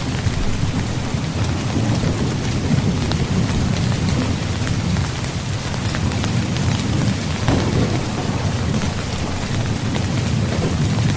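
Steady rain falling on a tent, with scattered drops ticking on the fabric over a constant low rumble.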